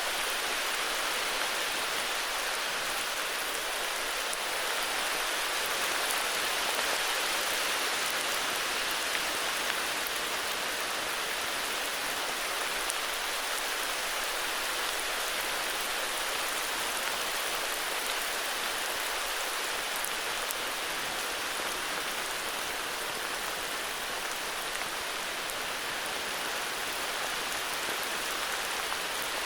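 Steady heavy rainfall: a dense, even hiss of rain with a few faint drop ticks.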